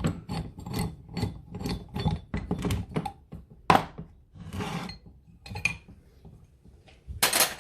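Ratchet spanner clicking about four times a second as the engine mount's main bolt is undone, then a sharp metal knock, a brief rub, and a louder clatter of metal parts near the end.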